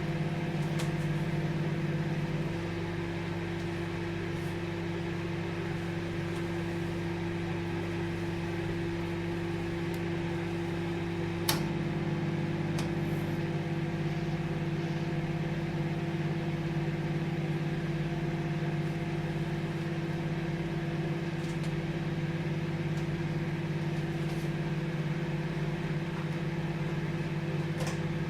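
Microwave oven running with a steady hum. About two and a half seconds in the hum drops a little, and about eleven and a half seconds in a single click comes as the fuller hum returns.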